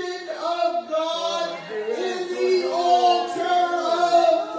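Several voices singing together in long held notes, as in worship singing.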